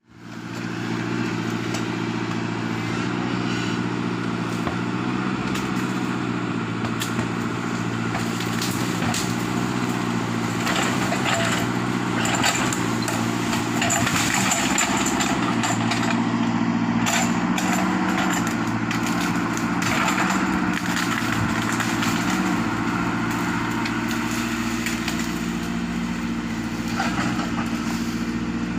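Sumitomo 110 excavator's diesel engine running steadily under load. Wood cracks and crunches repeatedly through the middle stretch as the machine pushes over a rubber tree.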